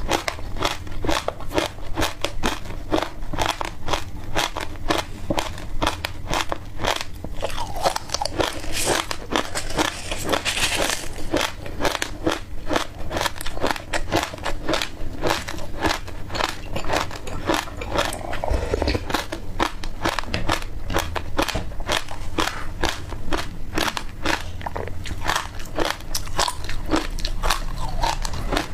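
Close-miked chewing of dry passion fruit seeds, a rapid run of sharp crunches about three a second.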